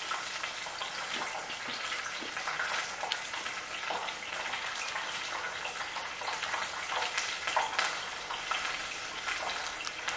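Crunchy chewing of flour-coated fried chicken close to the microphone, a steady run of small crackles and clicks as the meat is picked off the bone.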